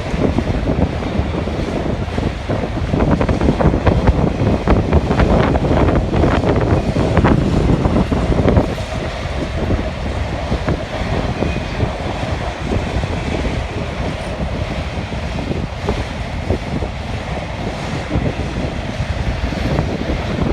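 Freight train cars rolling past with wheel clicks on the rails, the train sound ending about eight seconds in. Strong wind buffets the microphone throughout and is all that remains after the train.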